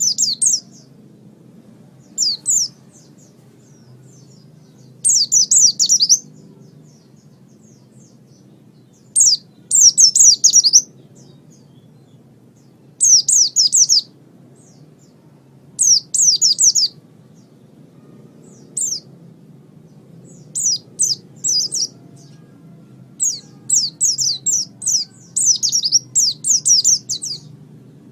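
Pleci (white-eye) singing in short phrases of rapid, high chirps, a phrase every few seconds, more frequent near the end.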